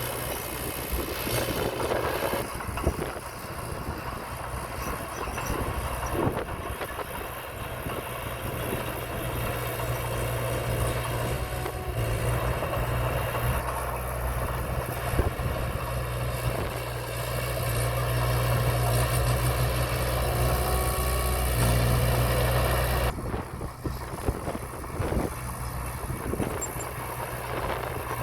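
Diesel engine of heavy earthmoving machinery running steadily, with scattered knocks. The engine grows louder for several seconds in the second half, then drops back abruptly.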